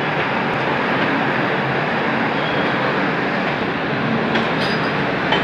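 Passenger train running, heard from an open coach doorway, with another train moving close alongside on the parallel track: a loud, steady rush of wheels on rails with a couple of sharp clicks near the end.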